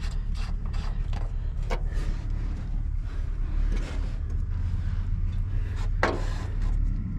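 Ford F700 dump truck's engine idling with a steady low rumble, with a couple of short scrapes or clicks from working on the brakes, about two seconds in and near the end.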